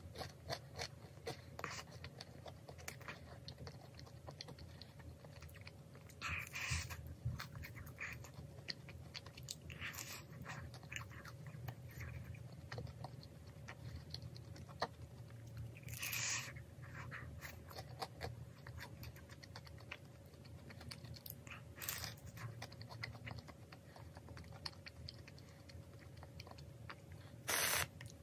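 Close-up chewing of a crisp-crusted fish-shaped pastry (ingeoppang), with many small crunches and a few louder bites. Near the end comes a short hiss of whipped cream spraying from an aerosol can.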